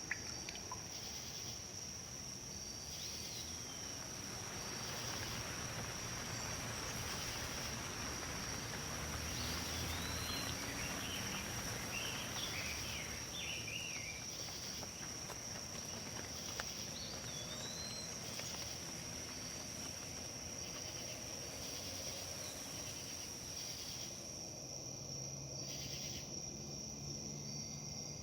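Wind rustling through leaves, swelling in the middle, over a continuous high steady insect trill. A few brief bird chirps come through, the most of them near the middle.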